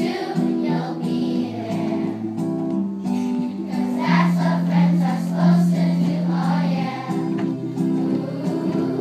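A group of voices singing a song in chorus over instrumental accompaniment, with a long held low note about halfway through.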